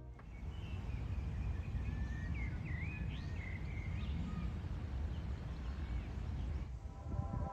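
Outdoor ambience: a steady low rumble with small birds chirping faintly, a handful of short rising and falling calls in the first half.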